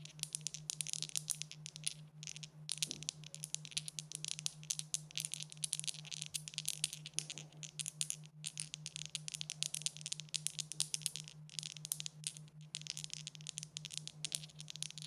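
Dice clicking against each other and a hard surface in a long, dense, continuous rattle, with a few brief breaks, over a faint steady low hum.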